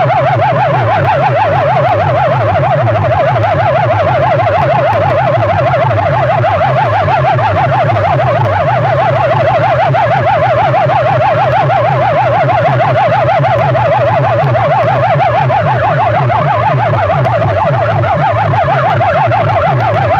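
Loud DJ sound system playing a fast-warbling, siren-like tone over a pulsing bass, held steady throughout.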